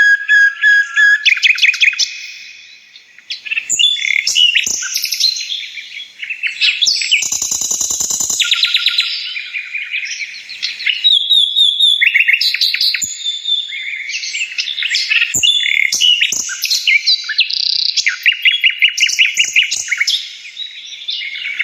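Several birds chirping and trilling at once in a dense, overlapping chorus of fast, high calls, with one harsh, buzzy call about seven seconds in.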